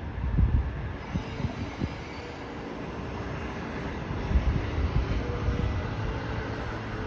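JR 211 series electric train departing: a low rumble of wheels on the rails with irregular low thumps, and a faint steady hum that comes in about halfway through as the train gets moving.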